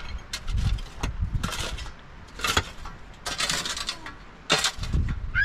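Irregular scraping and rubbing with dull low thumps, like hands working with materials or tools, and a short honk-like animal call right at the end.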